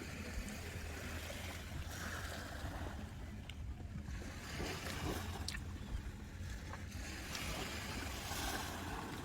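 Sea waves washing onto the beach, swelling and fading every few seconds over a low steady rumble.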